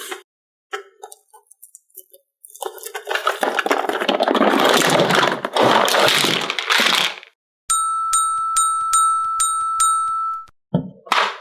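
A long noisy rustle, then a row of about six evenly spaced high dings over a held tone, lasting about three seconds.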